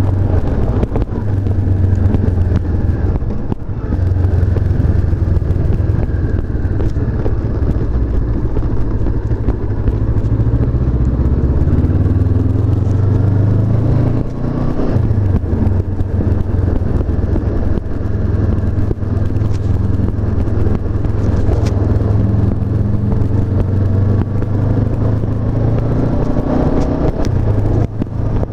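Honda CB500F's parallel-twin engine running under way on the road. Its note rises and falls with throttle and gear changes around the middle and again near the end.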